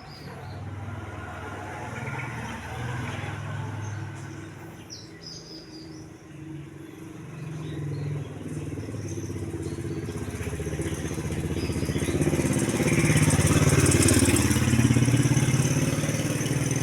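A motor vehicle engine passing close by, growing louder to a peak about three-quarters of the way through and then easing off. A few short bird chirps are heard in the first seconds.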